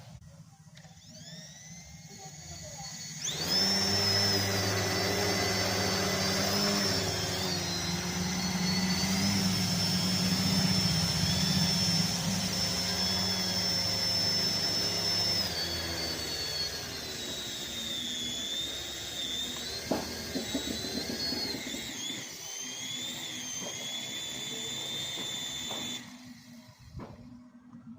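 A toy RC vehicle's small electric motor running with a high, wavering whine over a low hum. It starts suddenly about three seconds in, its pitch dips and rises a few times, and it cuts off suddenly near the end.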